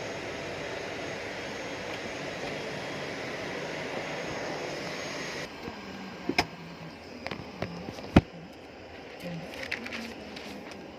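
Steady running of a jet aircraft on the apron, with a faint high whine; about halfway through it drops off suddenly to a quieter background broken by a few sharp knocks, the loudest a little past the middle.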